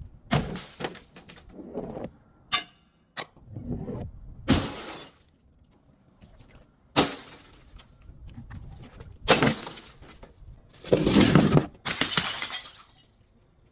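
Glass being smashed: a string of separate cracking, shattering impacts, about nine in all. One near the start rings briefly. The loudest are a sharp crash about seven seconds in and a longer crunching burst about eleven seconds in.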